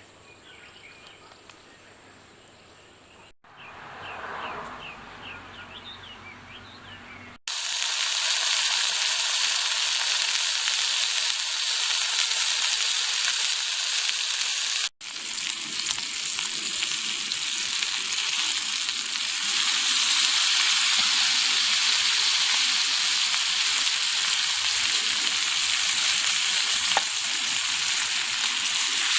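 Meat sizzling as it grills over a fire: a steady loud hiss that comes in suddenly about seven seconds in, after a quiet opening with a few faint chirps.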